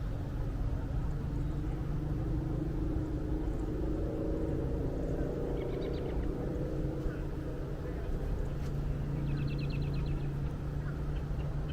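Steady low outdoor rumble with a faint hum, like distant traffic. Over it a small bird gives short, quick series of high chirps about six seconds in and again near ten seconds.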